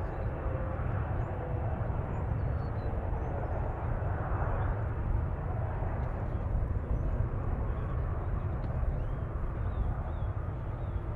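Jet airliner engines rumbling steadily, a low roar with a faint whine that fades in the first second or so.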